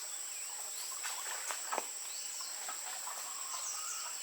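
Steady high-pitched drone of insects (crickets or cicadas), with a few faint bird chirps. Two light knocks come at about a second and a half in.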